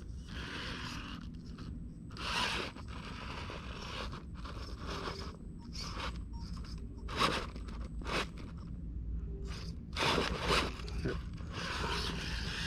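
1/10-scale RC rock crawler clambering over a boulder, its tyres and chassis scraping and crunching on the rock in short bursts, the loudest about two and a half, seven and ten seconds in. The passenger rear wheel is getting hung up on the rock.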